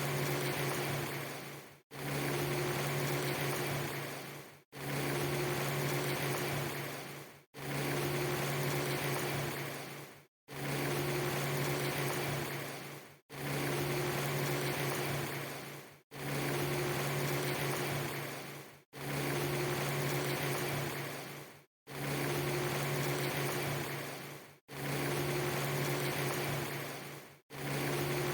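A short ambience clip, a steady rain-like hiss with a low steady hum under it, repeated over and over about every three seconds; each repeat fades away and drops into a brief silence before the next starts.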